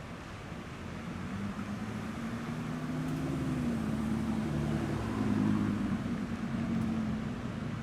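A car engine running at low revs, growing louder to a peak about five seconds in and then easing off.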